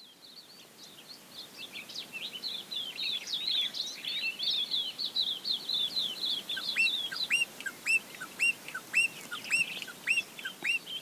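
Birdsong fading in: a busy twittering of many quick high chirps, joined from about seven seconds in by a repeated short rising call, roughly two a second.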